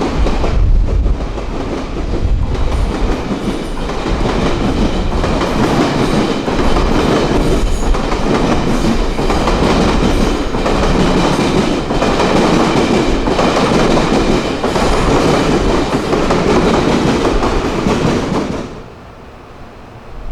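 A train running past close by, with a loud rumble and repeated clacks of wheels over rail joints. The noise drops away suddenly near the end.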